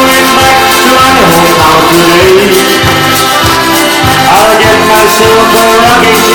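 Live band playing an Irish folk song with a steady beat: an instrumental passage between sung lines.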